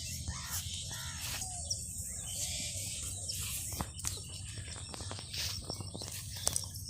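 Rural outdoor ambience: a steady low rumble and a steady high hiss, with a few short bird chirps and several sharp clicks.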